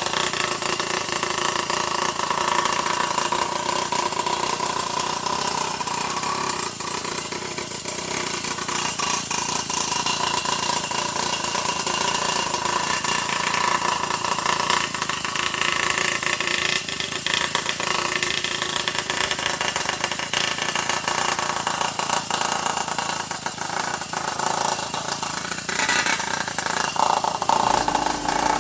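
A motor running steadily, with a steady whine over a dense mechanical noise.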